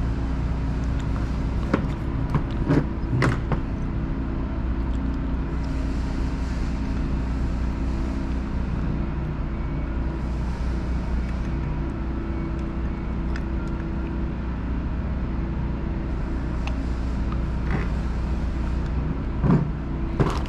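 Steady low mechanical hum of workshop background noise, with a few light clicks and taps of small carburetor parts being handled and fitted, a cluster a couple of seconds in and more near the end.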